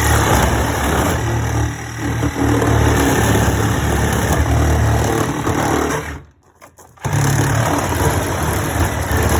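A power tool cutting into an old dishwasher. It runs steadily for about six seconds, stops for about a second, then starts again.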